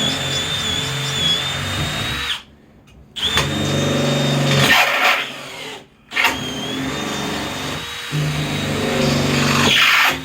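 Power drill driving screws into wood, its motor whining in three runs that stop briefly about two seconds in and again near the middle.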